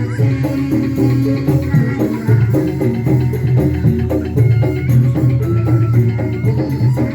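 Instrumental live band music with many quick repeated pitched notes over a strong bass line, driven by drums and a shaker-like percussion, without singing.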